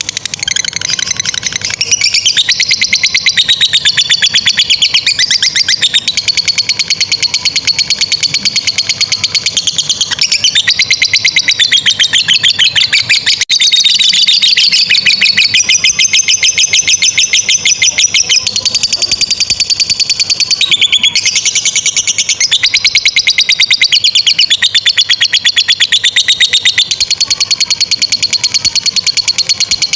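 Lovebird chattering in a long, rapid, high-pitched trill: the 'ngekek panjang' song prized in fighter lovebirds, running almost without pause.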